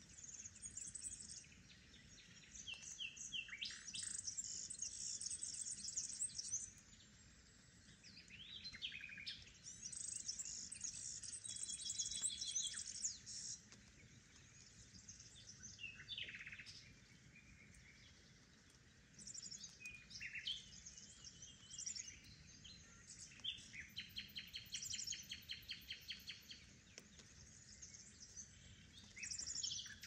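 Several songbirds singing in overlapping bouts of quick, varied high phrases and chirps, with a rapid trill of repeated notes near the end.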